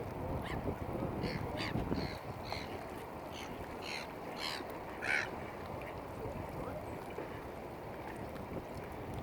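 A bird giving a run of short, harsh calls, about a dozen in the first five seconds, then stopping, over a steady low background noise.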